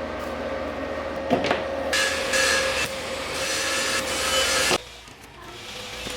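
Angle grinder running steadily with two harsh grinding passes, about a second each, before the loud noise cuts off suddenly near the end.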